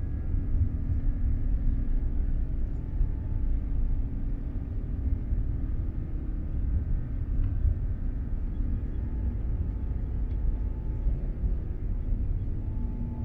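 Cabin noise of an Airbus A350-900 during takeoff: a steady deep rumble from its Rolls-Royce Trent XWB engines and airframe, with faint steady whine tones above it.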